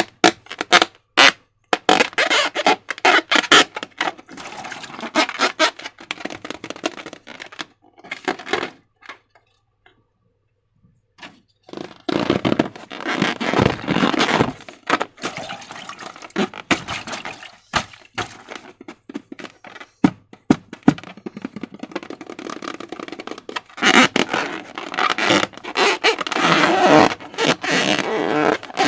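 Slime being handled and squished: sticky, wet crackling with many sharp clicks and pops, falling silent for a couple of seconds about a third of the way in.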